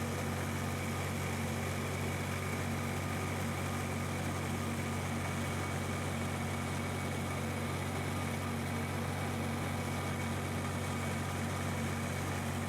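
Long 510 utility tractor's engine running at a steady speed, an even low drone.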